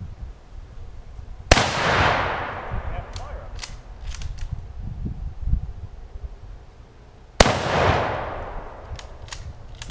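Two rifle shots from a Mosin-Nagant bolt-action rifle, about six seconds apart, each ringing out in a long echoing tail. A few light clicks come between the shots.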